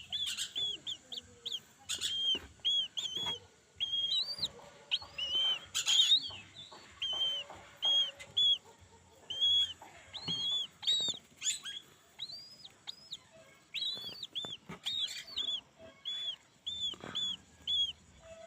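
Young Brahminy kite chick calling in a long run of short, high peeps, each rising and falling, two or three a second. A few sharp knocks sound among the calls, the loudest about six seconds in.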